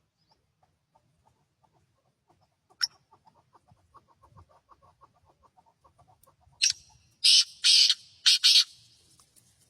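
A bird calling: a faint run of soft rapid clucks, then four loud harsh squawks in quick succession about two-thirds of the way through.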